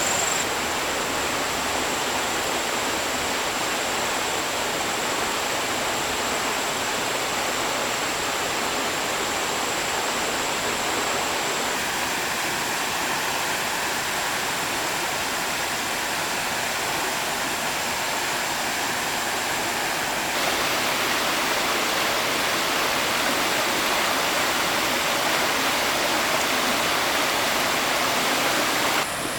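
Flowing stream water rushing steadily, with an abrupt change in level about twenty seconds in.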